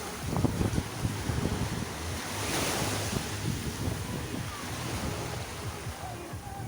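Sea surf washing onto the shore, with one wave's hiss swelling about two and a half seconds in. Wind buffets the microphone throughout.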